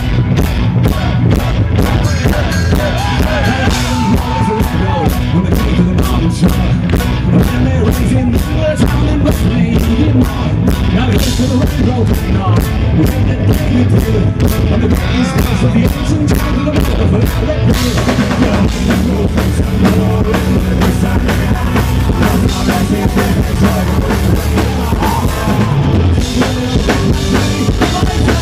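Live folk-rock band playing its intro, loud, over a steady drum-kit beat; about two-thirds of the way through the sound gets fuller and brighter as the cymbals come in harder.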